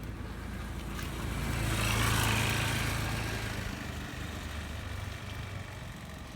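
A motor vehicle passing on a wet road: engine hum and tyre hiss swell to a peak about two seconds in and then fade, over the steady noise of heavy rain.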